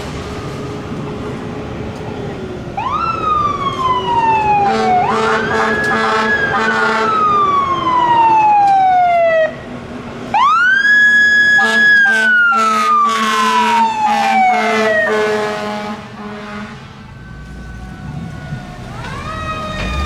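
Fire truck responding with its siren: the pitch climbs quickly, holds briefly, then falls slowly away, three times over. Steady air-horn tones sound under the middle two cycles, and the siren starts climbing again near the end.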